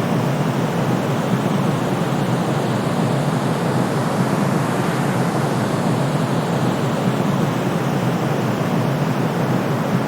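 Steady white noise for sleep: an even, unchanging shush with most of its weight in the lower tones and no deep rumble beneath.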